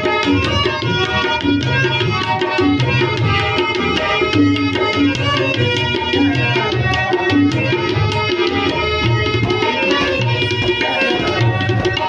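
Tabla playing a dense, fast stroke pattern, with the deep bass drum booming under the sharper treble strokes, over sustained held notes from a melodic accompaniment, without singing.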